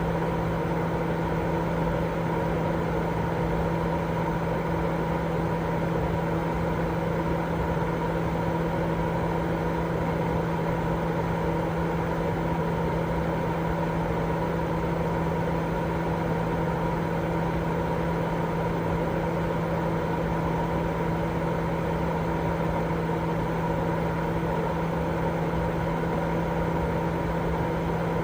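Steady, unchanging sleep-aid white noise: a dense hiss weighted toward the low and middle range, with a constant low hum and a fainter steady tone higher up.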